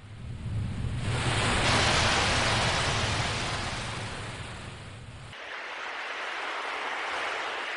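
Sea waves washing in: a surge of surf swells up about a second in, fades, and a second wash rises after about five seconds.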